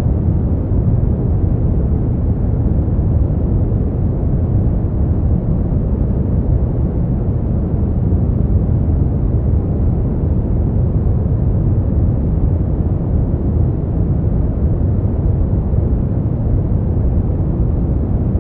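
Steady artificial noise track of the kind sold as white noise for sleep, dull and deep with little hiss on top: an even rushing sound that never changes.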